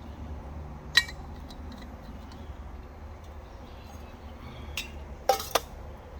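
Camp cookware clinking as a scoop or spoon knocks against a small cup: one sharp clink about a second in, and a quick pair of louder, briefly ringing clinks near the end.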